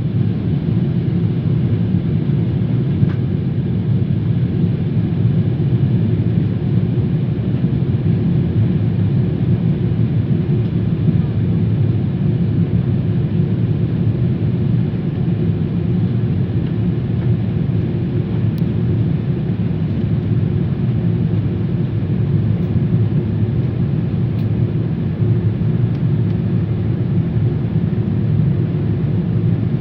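Steady low rumble of engine and airflow noise inside the cabin of a Boeing 777-300 airliner in flight, even throughout.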